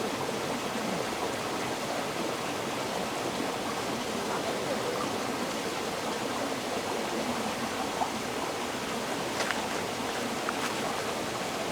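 River water flowing steadily, a continuous rush with small splashes and gurgles; a few brief ticks of splashing stand out in the second half.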